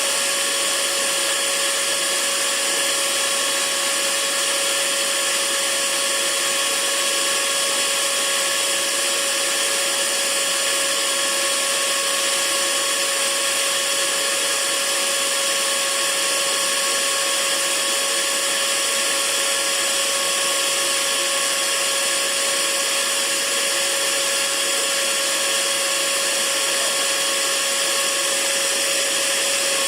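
Hair dryer running steadily: an even rushing hiss with a constant motor hum underneath.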